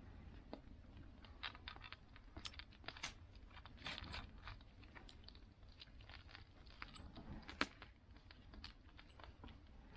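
Campfire crackling: faint, irregular pops and snaps over a low steady rumble.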